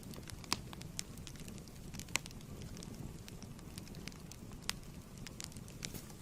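Wood fire in a fireplace crackling: a steady low rumble of flames with irregular sharp pops and snaps, the loudest about half a second and about two seconds in.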